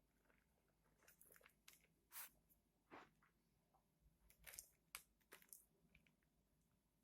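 Faint, scattered soft rustles and light ticks of soil being sprinkled by hand in a thin layer over sown seeds in a container.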